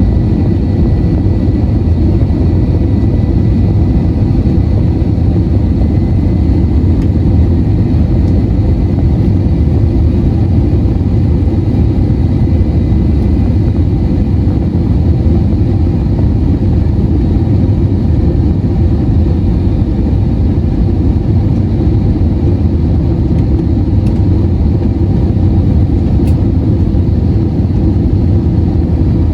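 Cabin noise of an Airbus A321-231 airliner: a steady, loud rush of airflow and engines, with a faint high whine that fades during the first half.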